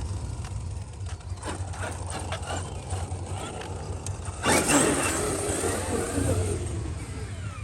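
Traxxas XRT RC monster truck driving over the ground, with a sudden louder stretch starting about four and a half seconds in that fades out over the next two seconds.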